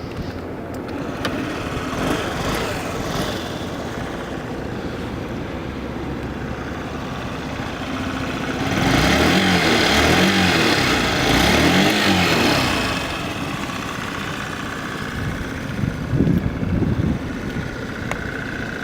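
Honda Metropolitan 50cc scooter's single-cylinder four-stroke engine idling, revved up and back down a couple of times about halfway through, then settling back to idle.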